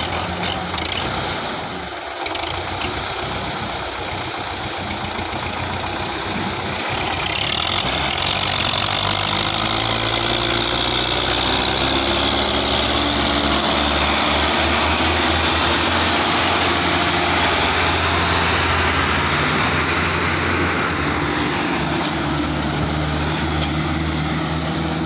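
Tractor engine running steadily. It gets louder over several seconds about a quarter of the way in, then holds at the higher level.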